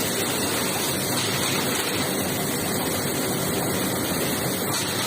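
Steady rushing of water spraying inside an industrial basket washing machine, even and unbroken.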